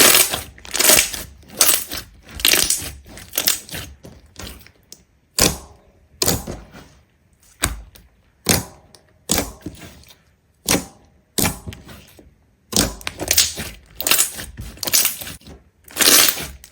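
A run of short, crisp crunches and cracks, something brittle being crushed or broken one piece at a time, about one to three a second with brief pauses.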